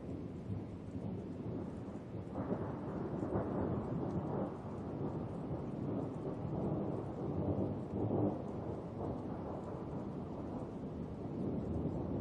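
Thunder rumbling over steady rain: a long rolling rumble sets in about two seconds in and swells several times before easing off.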